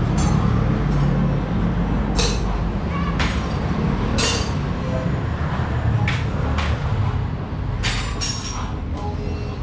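City street traffic: a steady rumble of vehicle engines, broken by several short hisses or rattles.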